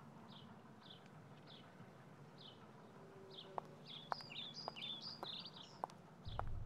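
Birds calling: one short downward chirp repeated about every half second, joined by a quicker warbling song about four seconds in. A few faint ticks fall in the second half, and a low background rumble gets louder near the end.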